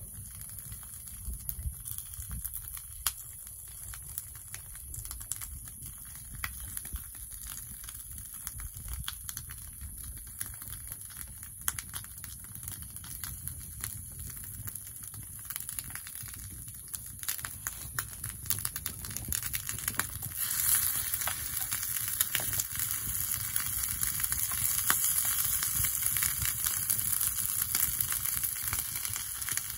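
Sizzling and crackling over a fire, as in campfire cooking, with scattered sharp crackles. The sizzle grows louder and hissier about two-thirds of the way through.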